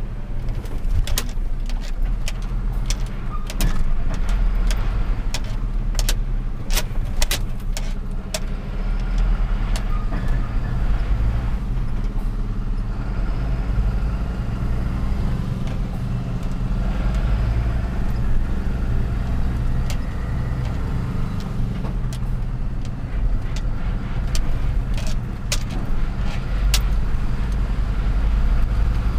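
Truck engine running steadily as the truck is driven in city traffic, with many sharp clicks and rattles, most of them in the first few seconds and again near the end.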